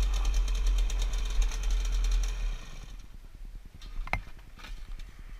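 2009 Gas Gas EC SMR 125 single-cylinder two-stroke engine running at low revs as the bike rolls to a stop, then falling much quieter about two and a half seconds in. A single sharp click comes about four seconds in.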